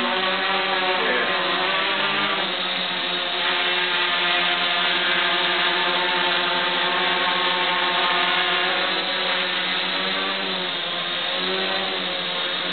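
Electric rotors of an Ascending Technologies micro aerial vehicle buzzing steadily as it hovers autonomously. Their pitch wavers up and down as the vision-based controller adjusts the motor speeds to hold position.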